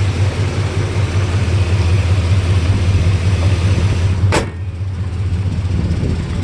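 Swapped-in 5.3-litre V8 in a GMT800 Chevrolet Silverado idling steadily through long-tube headers and dual exhaust. A single sharp click about four seconds in, after which the engine is slightly quieter.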